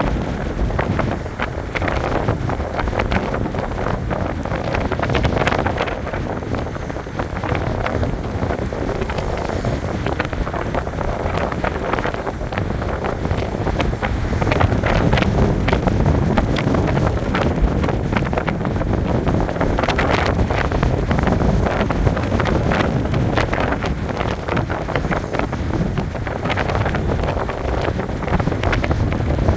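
Strong wind buffeting the microphone, mixed with sea waves breaking and washing on the shore: a loud, steady rush with constant crackle.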